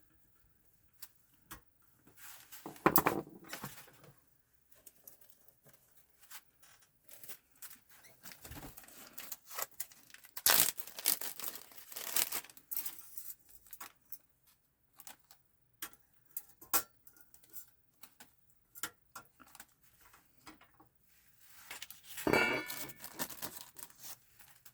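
Intermittent clicks, scrapes and rattles of plastic and metal parts being handled and pried apart while a PS4 console is disassembled. Louder scraping comes about three seconds in, around ten to thirteen seconds in and again near the end.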